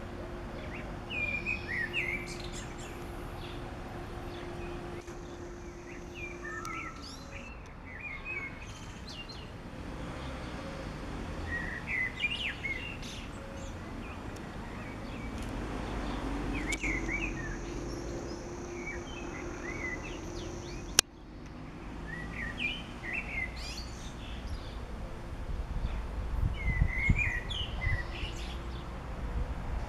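Songbirds singing short chirping phrases every few seconds over outdoor background noise, with a steady low hum underneath for stretches of several seconds. A single sharp click about twenty seconds in.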